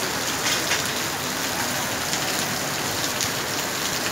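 Heavy monsoon rain pouring steadily onto a wet paved street and brick pavement, a continuous even hiss with a few brief louder splashes of drops close by.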